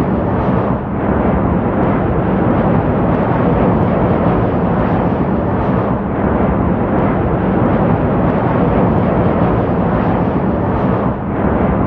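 Loud, steady roar of jet aircraft engines, with a low drone underneath and brief dips in level about a second in and near the end.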